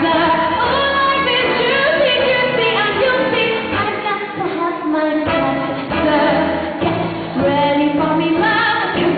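A woman singing a show tune over instrumental accompaniment, her melody held and sliding between notes, with a muffled, dull top end.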